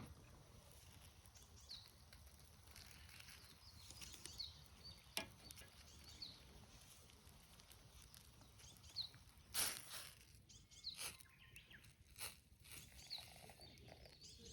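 Quiet outdoor ambience with faint short bird chirps now and then and a few sharp clicks or taps, the loudest about ten seconds in.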